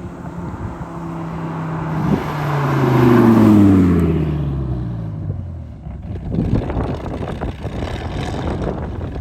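1999 Dodge Viper RT/10's V10 through a Corsa cat-back exhaust with Belanger high-flow cats, driving past. The exhaust note swells to its loudest about three and a half seconds in, its pitch falling steadily as it goes by, then fades into wind noise.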